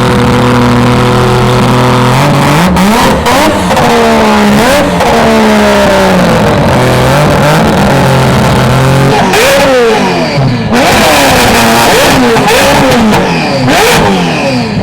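Loud performance-car engines revving as cars drive off: a steady engine note, then from about two seconds in repeated rising and falling revs from more than one engine, with a few short sharp cracks.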